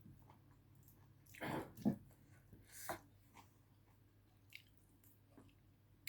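Close-up eating sounds: a person chewing and biting food, a few soft wet mouth sounds, the loudest a little past a second in, with a low steady hum underneath.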